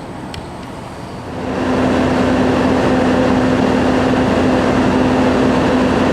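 Steady machine noise: a low, even hum with a rushing noise over it, swelling louder about a second in and then holding steady.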